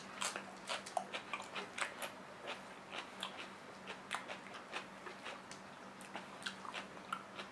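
A man chewing close to the microphone: irregular crisp crunches and wet mouth clicks, about two or three a second, as he bites into and chews a raw cucumber slice.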